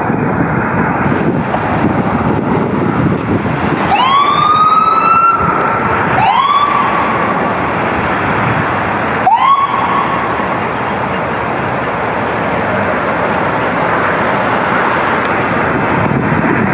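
Emergency vehicle siren sounding three short rising wails, each climbing quickly and holding briefly, over steady heavy engine and road noise from the responding fire apparatus.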